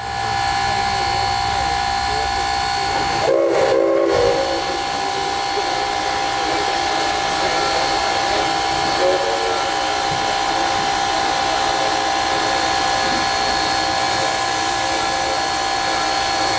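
Narrow-gauge steam locomotive standing and running, with a steady high-pitched whine and hiss throughout and a brief lower pitched sound about three seconds in.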